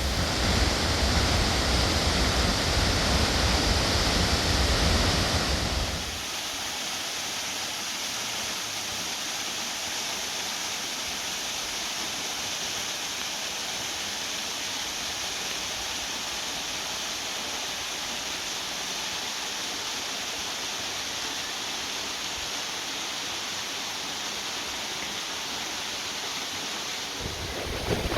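Steady rush of falling water. For the first six seconds it is louder, with a deep rumble under it, then it drops abruptly to an even hiss.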